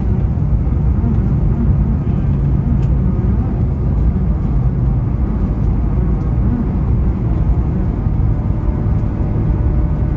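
Steady low rumble of an Airbus A220-300's Pratt & Whitney PW1500G geared turbofans and airflow, heard inside the passenger cabin, with a faint hum riding on it.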